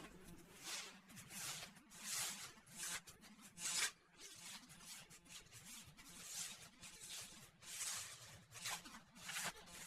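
Faint footsteps on the ground on a walk, a soft swish roughly every three quarters of a second.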